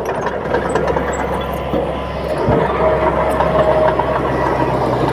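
Bulldozer's diesel engine running steadily, with a single low thump about halfway through.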